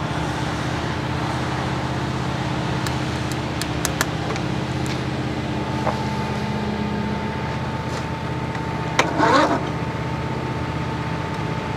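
Lawn tractor engine being cranked by its electric starter, turning over slowly and steadily without catching: the owner puts the slow cranking down to a weak starter or valves that need adjusting. A brief scraping burst comes about three-quarters of the way through.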